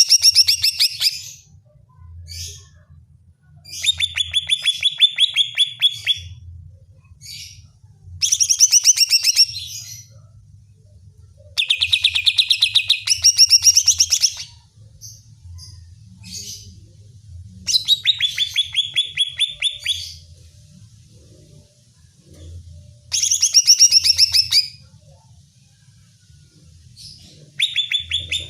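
Green leafbird (cucak ijo) singing in bursts of rapid, high chattering notes. Each burst lasts two to three seconds and comes again every four to five seconds.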